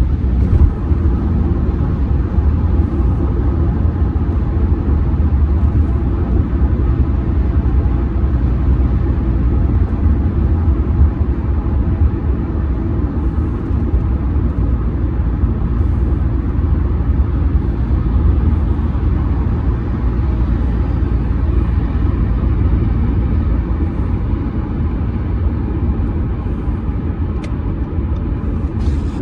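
Steady road and tyre rumble of a 2007 Audi A6 C6 2.0 TDI driving at highway speed, with the diesel engine's drone underneath. Two faint clicks near the end.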